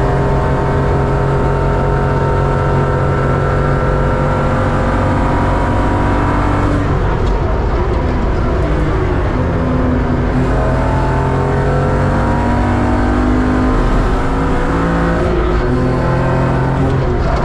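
BMW 325 Cup race car's engine at hard throttle, heard from inside the cabin. Its pitch climbs steadily, breaks off about seven seconds in, and climbs again from about ten seconds, with another brief break near the end.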